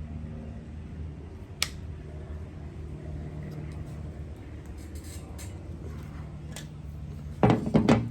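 Light clicks and taps of hands handling epoxy and the window glass's broken guide tab, over a steady low hum. There is one sharp click about a second and a half in and a louder cluster of sounds near the end.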